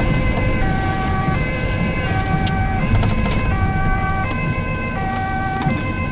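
Ambulance two-tone siren sounding high-low, each tone held about three quarters of a second, heard from inside the ambulance over its engine and road noise.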